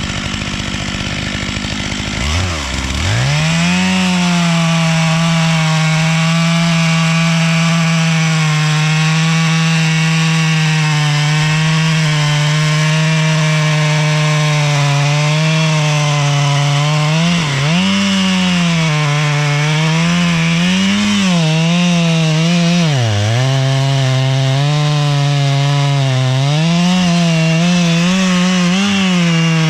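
Stihl 661 two-stroke chainsaw revving up about two seconds in, then cutting into a tree trunk at full throttle, its pitch dipping briefly a few times as the chain loads up in the wood.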